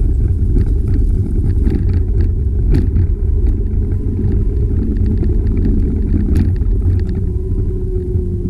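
Steady loud wind and road rumble on the microphone of a camera riding on a moving bicycle, with scattered small clicks and rattles from bumps in the trail.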